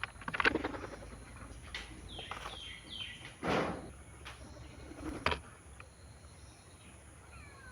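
Birds calling in a feeding flock: a few harsh, squawk-like calls and a quick run of short falling calls, the loudest burst about three and a half seconds in.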